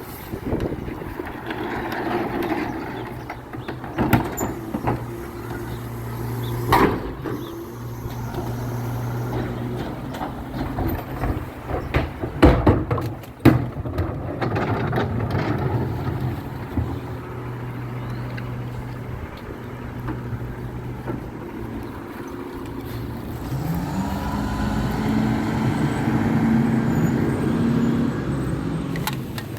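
Garbage truck engine running steadily, with several sharp clanks and bangs partway through and a loud pair of knocks about twelve to thirteen seconds in. Near the end the engine revs up, rising in pitch and holding higher.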